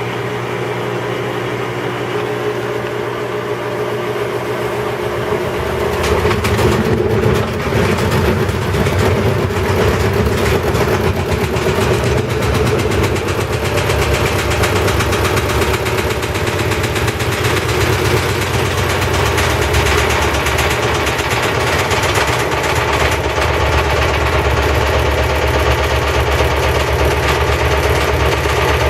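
Maytag Centennial washing machine running its wash cycle with a loud mechanical noise, the fault the owner sets out to fix. The noise grows louder about six seconds in and turns into a fast, continuous rattle.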